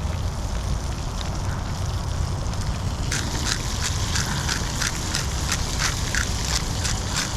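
Seasoning being shaken from a shaker over the pan in quick rattling shakes, about three a second, starting about three seconds in, over a steady low rumble.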